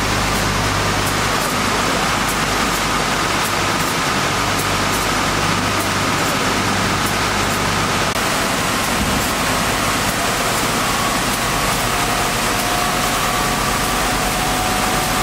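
Wood core profile sanding machine running: a steady, loud rushing noise, with a faint motor whine that comes up in the second half.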